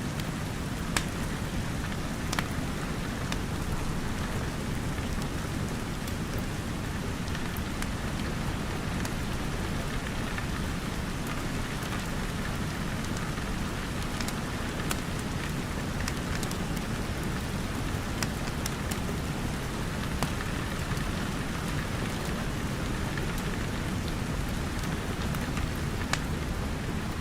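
Steady rain with a low rumble under it, broken by a handful of sharp crackles from a wood fire.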